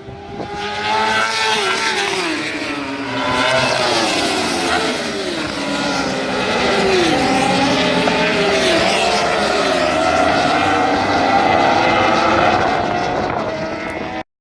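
Racing superbikes at full speed, several engines overlapping. Their notes repeatedly drop and climb in pitch. The sound cuts off abruptly just before the end.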